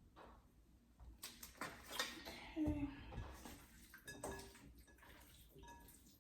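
Kitchen handling sounds: a dish and utensils knocking, clinking and scraping while chicken pieces are coated in flour. There is a cluster of knocks in the middle, the loudest a thump a little under three seconds in, and a few lighter clinks after it.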